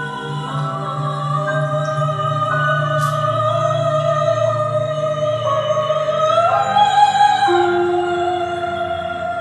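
Operatic music: a soprano voice sings long held notes, moving to a new pitch about once a second, over a steady low accompaniment.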